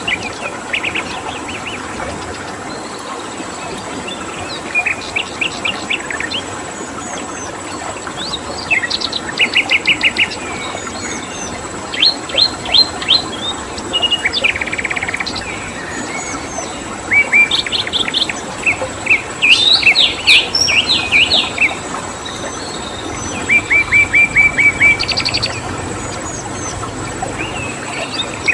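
Songbirds singing short phrases of rapid repeated chirps every few seconds, over a steady rush of flowing water and a constant high drone of crickets.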